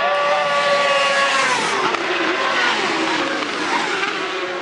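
1000cc superbike engines at race speed: a steady high engine note that drops in pitch about a second and a half in. After that, several bikes' engine notes overlap and shift.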